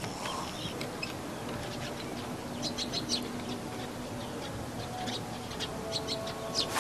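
Small birds chirping in short, quick calls, thickest around the middle and again in the last couple of seconds, over a faint steady hum.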